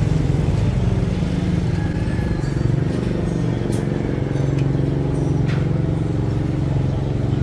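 An engine or motor running steadily with a low hum, with a few faint clicks.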